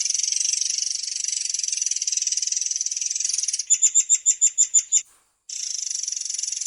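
Murai air songbird singing a long, high-pitched rolling trill. A little past halfway it breaks into a run of about nine loud, clear repeated notes, then stops for about half a second before the trill starts again.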